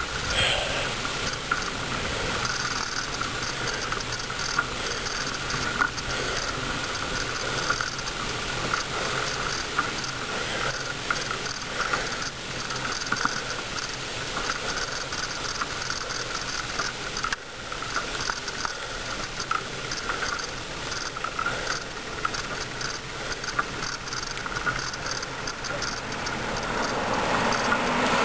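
Bicycle coasting downhill: a rapid, fine ticking of the rear freewheel's pawls over steady wind and tyre noise. In the last few seconds a car approaching grows louder.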